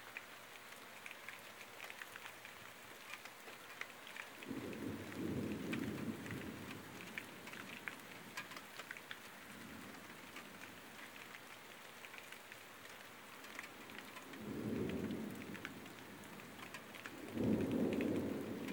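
Heavy thunderstorm rain pattering steadily, with many sharp drop ticks. Three rolls of low thunder swell up: about four seconds in, again near fifteen seconds, and loudest near the end.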